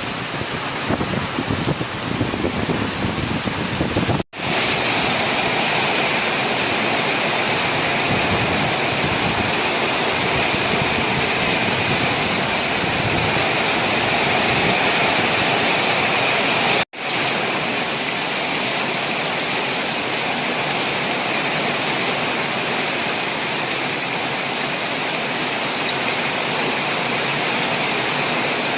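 Heavy rain falling in a steady hiss during a storm. The sound cuts out for an instant twice, about four seconds and about seventeen seconds in.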